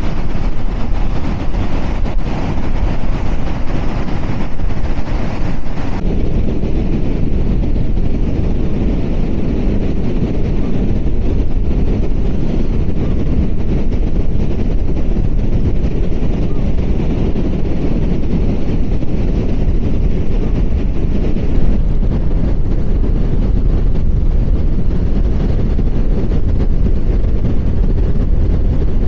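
Strong gusty wind buffeting the microphone: a loud, steady low rumble, a little less hissy after about six seconds.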